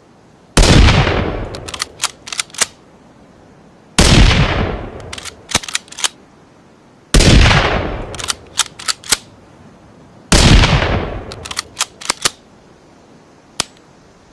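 Rifle shot sound effect, a blend of a Ruger American rifle and a rimfire rifle, fired four times about three seconds apart. Each loud shot rings out and fades over a second or so, followed by a quick run of three to five sharp clicks, with one lone click near the end.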